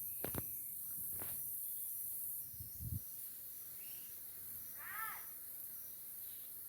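Steady high-pitched insect chorus of crickets or cicadas, with a row of small repeated chirps. There are a few sharp crackles and a thump in the first three seconds, like footsteps on leaf litter, and a short bird call about five seconds in.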